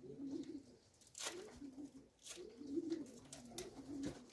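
Racing pigeons cooing in a loft, a run of low, repeated coos, with a couple of short sharp clicks about one and two seconds in.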